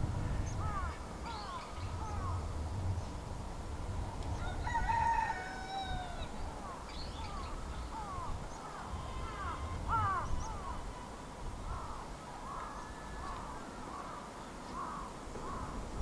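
Birds calling: many short, falling chirps throughout, with one longer call with a falling end about five seconds in, over a low rumble.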